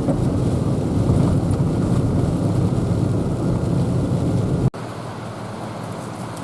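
Steady engine and tyre noise of a vehicle driving on a muddy mountain road. About three-quarters of the way through it drops suddenly to a quieter steady drone.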